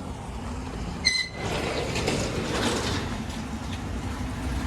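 A car engine idling with a low, steady rumble. About a second in there is a sharp click and a short high beep, followed by about two seconds of mechanical rattling.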